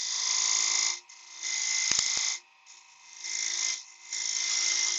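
A turning tool or caliper point scraping the spinning spalted beech on a wood lathe, in four separate cuts of about a second each, each a harsh hiss. A couple of short clicks come near the middle, over the lathe's steady hum.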